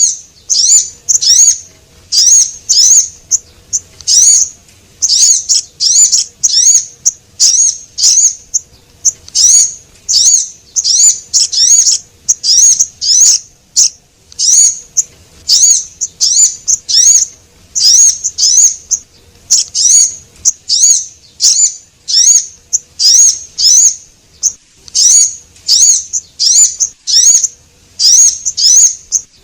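Sogon bird lure recording: rapid, high-pitched chirping call notes, each a short curved note, repeating about twice a second in uneven runs, played loud to draw small birds in.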